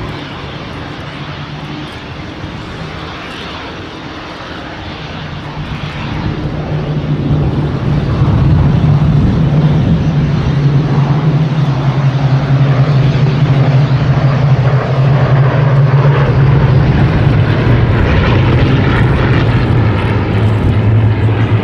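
Hawker Hurricanes' Rolls-Royce Merlin V12 piston engines droning in flight. The sound grows much louder between about six and eight seconds in as the aircraft approach, then holds loud. Its pitch drops slightly near the end as they pass.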